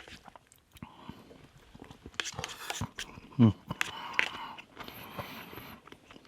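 Close-up eating sounds: biting and chewing garlic butter shrimp, with wet clicks and smacks. A short, low voiced sound that falls in pitch comes about three and a half seconds in.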